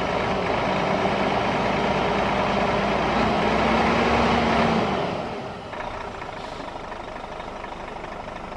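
A motor vehicle's engine and road noise running steadily. About five seconds in, the sound falls away, as if the vehicle is slowing, and it carries on more quietly.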